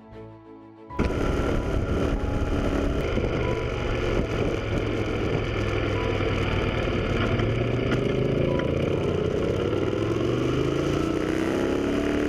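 Motorcycle engine running on the road over a rushing noise, starting abruptly about a second in; near the end its note climbs as the bike accelerates.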